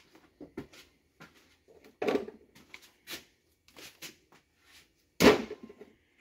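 Engine parts being handled on a workbench: a string of light clicks and knocks, with a louder clunk about two seconds in and the loudest one near the end.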